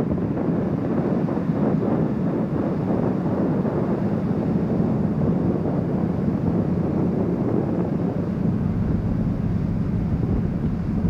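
Steady low drone of a car ferry's engines under way, with wind rushing over the microphone.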